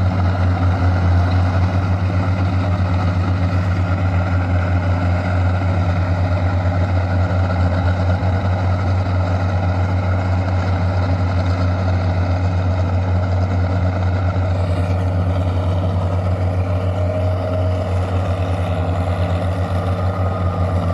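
Farm tractor engine running steadily at constant speed, a low pulsing drone.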